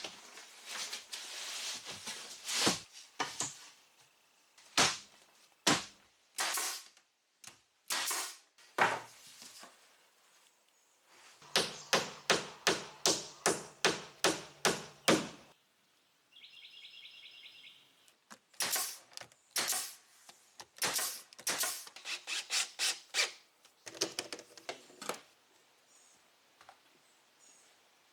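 Repeated knocks on wood, irregular at first, then a fast even run of about a dozen blows, about three a second, through the middle. A short high warbling sound comes just after that run.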